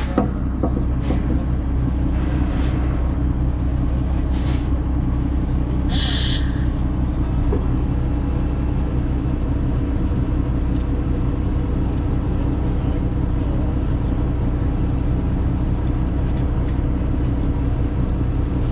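Heavy diesel truck engine running steadily. Several short hisses of released air come in the first seven seconds, the longest about six seconds in.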